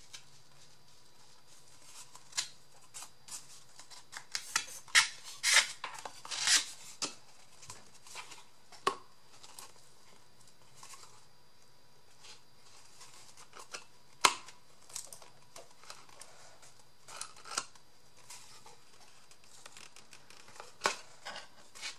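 Paper and cardboard craft pieces being handled and pushed into place: scattered rustles, scrapes and sharp clicks, densest and loudest about five to seven seconds in.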